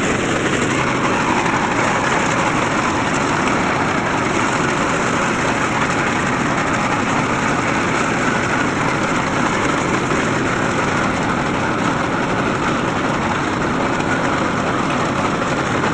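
Mahindra tractor's diesel engine running steadily.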